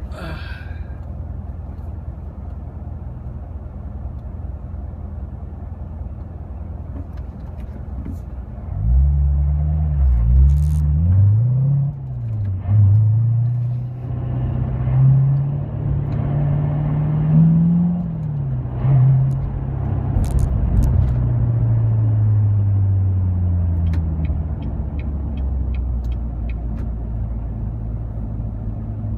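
Car engine heard from inside the cabin: idling steadily at first, then, about nine seconds in, accelerating away, its pitch climbing and dropping several times through gear changes before it settles into a steady cruising drone.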